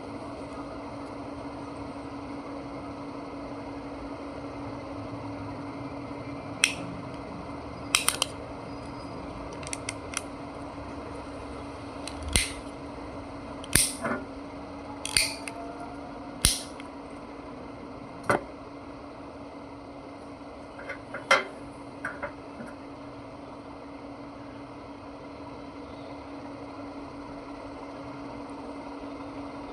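Scattered sharp clicks and snaps of small parts being handled while a car's side-mirror control switch is worked on, about a dozen of them through the middle stretch, over a steady low hum.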